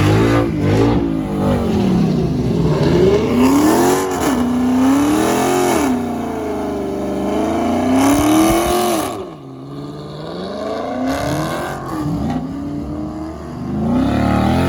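A car engine revving hard during a burnout, its pitch climbing and falling again and again every couple of seconds as the throttle is worked, with a short drop in revs partway through.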